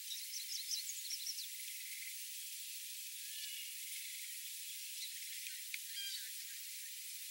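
Faint high hiss with a few short, high chirps scattered through it, typical of small birds calling, in groups near the start, around the middle and shortly before the end.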